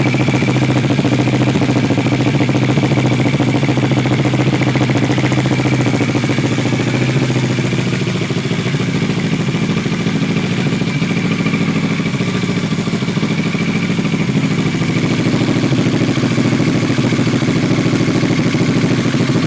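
2012 Kawasaki ER-6n's parallel-twin engine idling steadily through an aftermarket slip-on exhaust with a custom-made link pipe, with a faint steady high whine above the exhaust note.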